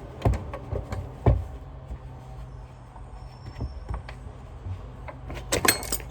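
Steady low rumble of a large vehicle idling close by, which he takes for a trash truck, with sharp knocks and clicks of vacuum parts being handled: two loud knocks in the first second and a half, one more in the middle, and a quick cluster of clicks near the end.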